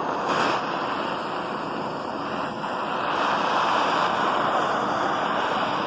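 Handheld butane gas torch burning with a steady hiss as its flame heats an aluminium bar for brazing; the sound swells a little past the middle.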